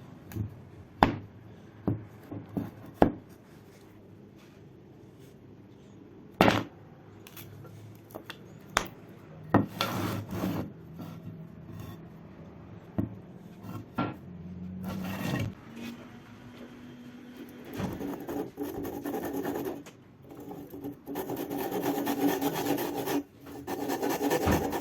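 Hand-tool work on an old sledgehammer: a few sharp knocks in the first several seconds, more knocks and short scrapes through the middle, then steady rough rubbing strokes from near the end onward.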